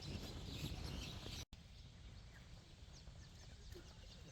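Outdoor ambience of background noise with birds chirping. It breaks off at a hard cut about a second and a half in, then continues quieter with short, high, falling chirps.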